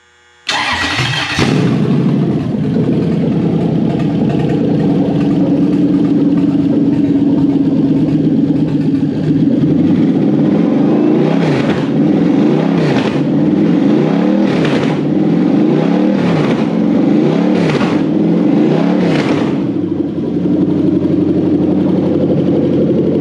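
Toyota 1UZ-FE quad-cam V8 starting about half a second in and idling. Later it is given about six quick throttle blips roughly a second and a half apart, then it settles back to idle. The engine has a burnt valve on cylinder number 7.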